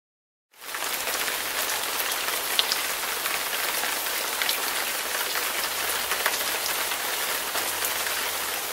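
Stock rain sound effect: a steady hiss of rain with scattered drop ticks, starting about half a second in.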